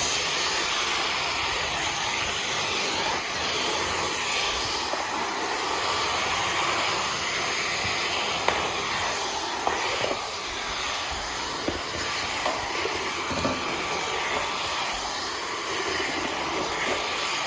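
Dyson V15 Detect cordless stick vacuum running steadily, with a high motor whine over the rush of suction as it vacuums dust. It cuts off right at the end.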